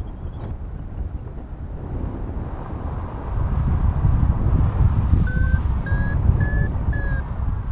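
Wind rushing over the microphone in flight, growing stronger about three seconds in. Near the end come four short electronic beeps from a paragliding variometer, about two a second. This beeping is the vario's climb tone, the sign that the glider is in rising air.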